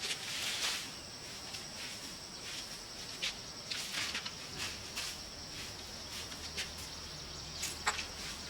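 Steady high-pitched drone of insects, with short rustles and knocks scattered through it, the sharpest near the end.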